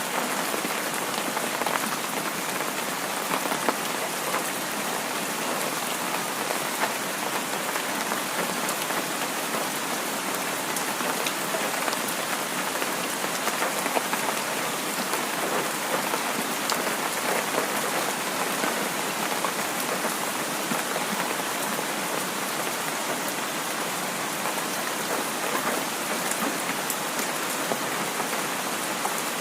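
Heavy rain falling steadily, with scattered sharper drop hits.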